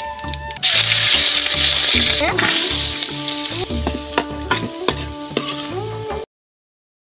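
Onions and whole spices sizzling in hot oil in a large aluminium pot, a steel ladle clinking against the pot as they are stirred. The sizzle starts suddenly about half a second in, loudest at first, and cuts off abruptly near the end.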